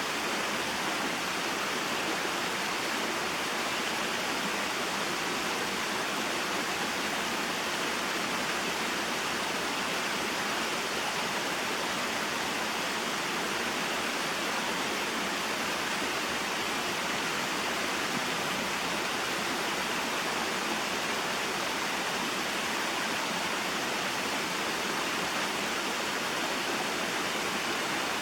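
Small mountain waterfall and stream flowing: a steady, even rush of water with no change.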